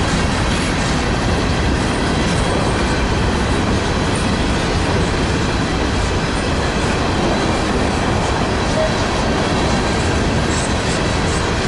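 Freight train rolling past, a steady loud noise of wheels on the rails.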